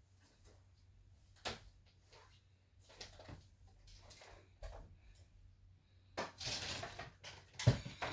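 Handling noises of objects being moved about: scattered clicks and light knocks, a sharp knock a second and a half in, a rustling scrape about six seconds in, and a loud thump near the end as something is set down.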